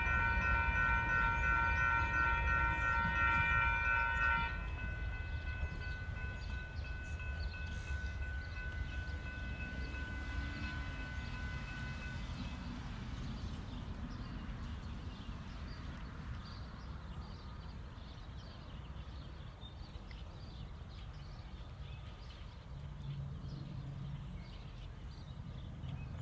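Freight locomotive's horn sounding a steady multi-note chord that cuts off about four and a half seconds in, with a fainter tone trailing on to about twelve seconds. Under it runs the low, steady rumble of the long freight train's cars rolling by.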